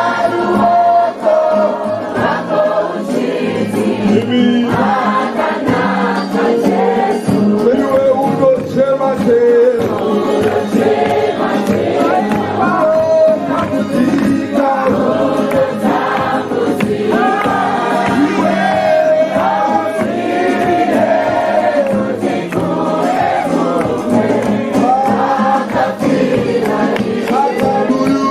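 A group of voices singing a worship song together, choir-style.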